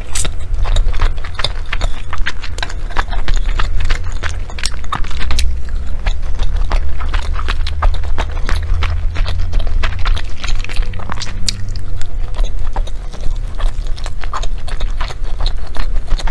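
Close-miked chewing of sticky glutinous rice and meat from a zongzi: irregular wet mouth clicks and smacks, many per second, over a low rumble.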